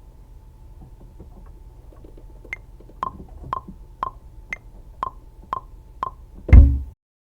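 Programmed beat percussion playing back: a sharp wood-block-like click about twice a second, alternating between two pitches, then one loud deep bass-drum hit, after which the playback cuts off abruptly into silence.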